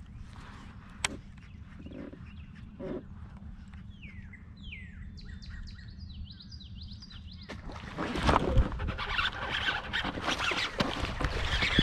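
A songbird calling in a quick series of short, falling whistled chirps over a steady low background. Near the end a louder, noisy stretch starts and carries on, a churning of water and handling noise.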